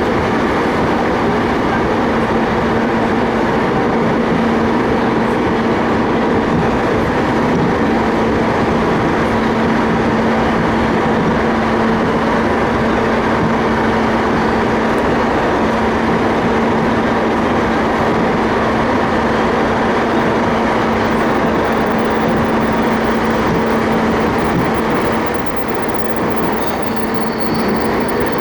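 Keiyo Line rapid electric train running at speed, heard from inside the passenger car: a steady rumble of wheels on rail with a steady low motor hum. A faint high wheel squeal starts near the end.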